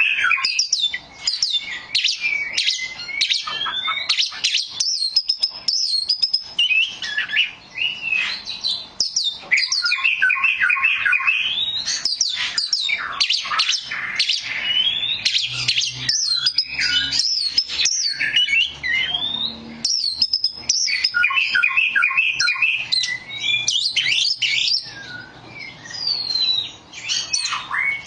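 Oriental magpie-robin (kacer) singing a long, varied run of quick whistles, chirps and sharp notes, almost without pause, easing briefly near the end.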